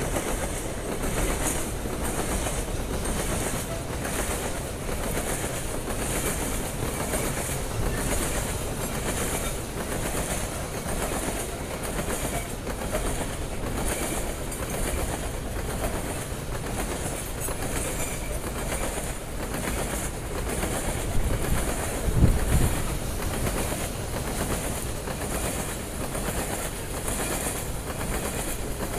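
Loaded CSX coal hopper cars rolling past, their steel wheels clicking over the rail joints in a steady rhythm over a continuous rumble. One heavier low thump comes about three quarters of the way through.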